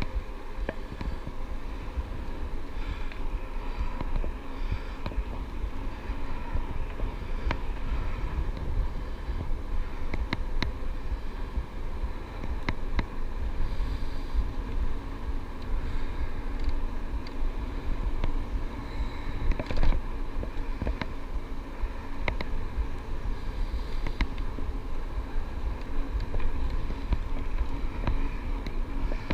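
Steady rumble of wind on the microphone and rolling noise from an electric bike being ridden, with scattered sharp clicks and knocks throughout.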